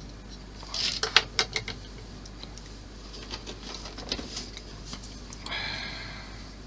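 Small hard parts and tools clicking and tapping on a workbench, a quick run of sharp clicks about a second in, then lighter scattered clicks, and a brief rustling hiss near the end.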